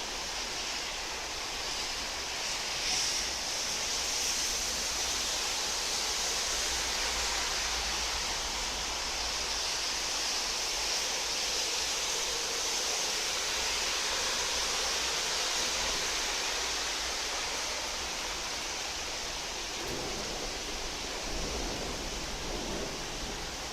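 Rain falling steadily: an even, unbroken hiss, with a low rumble near the end.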